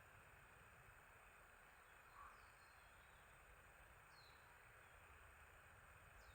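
Faint birdsong: a few brief, high, downward-sweeping chirps, spaced a couple of seconds apart, over a steady soft hiss.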